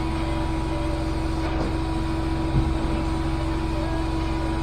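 Carpet-cleaning extraction machine running steadily, a constant hum with a steady whine over it. A brief low thump comes about two and a half seconds in.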